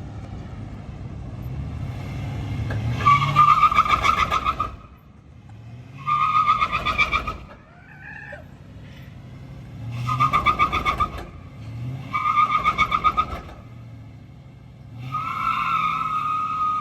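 Engine revving with tires squealing in five bursts of one to two seconds each: a vehicle doing burnouts.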